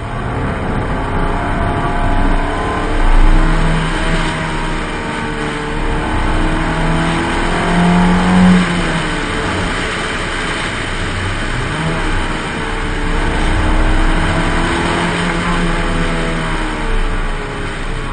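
Honda F20Z1 2.0-litre SOHC four-cylinder engine of a 1994 Rover 620 Si Lux, driven hard, its revs repeatedly rising and falling through the bends, over a steady rush of road and wind noise.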